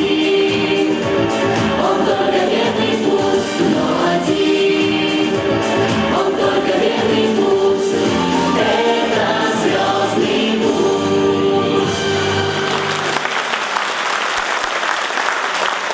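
A group of voices singing in chorus with musical accompaniment; the song ends about three seconds before the close and audience applause takes over.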